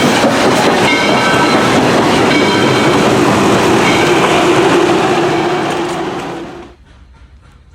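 Steam-hauled train passing close by, a loud rumble and clatter of wheels with a few brief high ringing tones; the sound drops away suddenly near the end.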